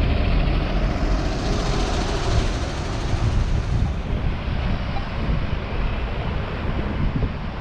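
City street traffic noise, with a vehicle passing, loudest from about one to four seconds in, over a steady low rumble.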